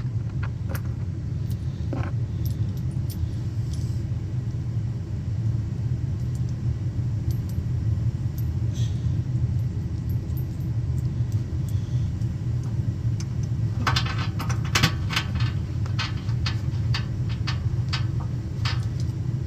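Steady low hum throughout, with a run of metallic clinks and rattles from about two-thirds of the way in, typical of tools and small metal parts being handled while a furnace blower motor is fitted.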